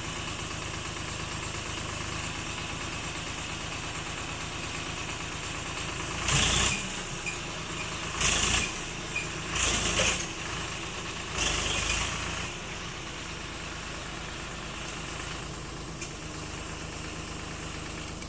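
Swaraj 744 FE tractor's three-cylinder diesel engine running steadily, with four short, loud, noisy bursts between about six and twelve seconds in.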